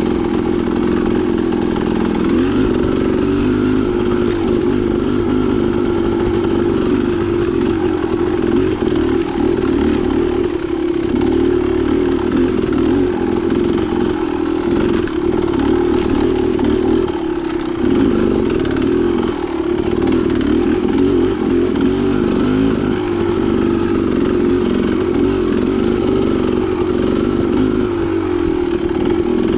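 Dirt bike engine running steadily while riding singletrack trail, with small rises and falls of the throttle and a brief easing off about halfway through.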